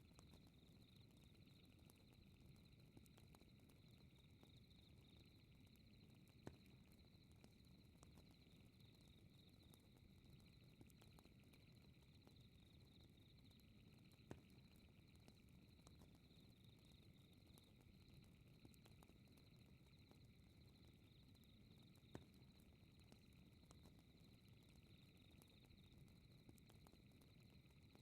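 Faint fireplace ambience: a steady low crackle and hiss of burning wood with a few sharp pops, over a steady high insect chirring of a night ambience.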